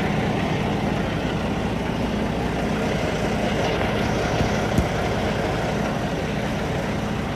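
Semi truck's diesel engine idling steadily, with a single sharp knock a little under five seconds in.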